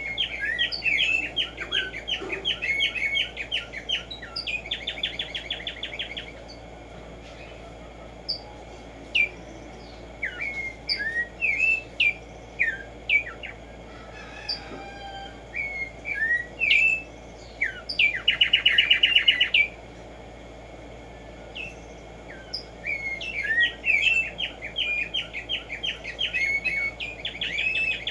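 Black-striped sparrow (tumba yegua) singing: series of repeated notes that speed up into fast rattling trills, three song bouts in all, with scattered single chirps between them.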